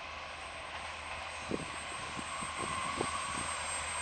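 Approaching freight train's diesel locomotives, a steady engine rumble and hum slowly growing louder, with a few faint low thumps.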